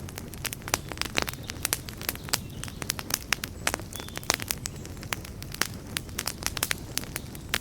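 Wood campfire burning, crackling and popping with many irregular sharp snaps over a steady low rush of flame.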